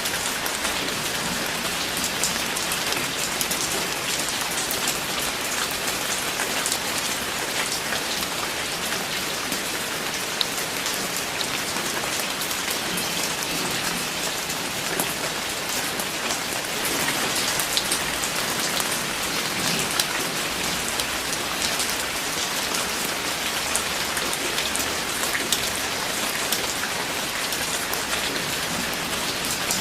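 Steady rain falling, with a constant hiss and many close drops ticking on a surface.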